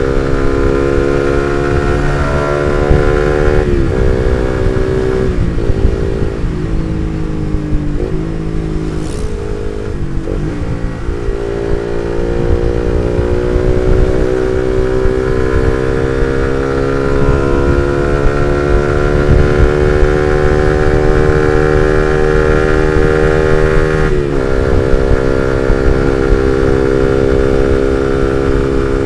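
Suzuki GSX-R150's single-cylinder four-stroke engine through an R9 Misano aftermarket exhaust, ridden on the road. The revs drop about four seconds in and waver up and down for several seconds. They then climb steadily for about twelve seconds, fall sharply near the end and start rising again.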